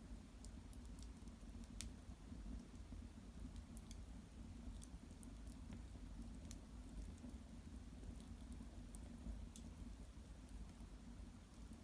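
Small wood fire of Japanese cedar branches and bark burning quietly, with faint scattered crackles and pops at irregular intervals.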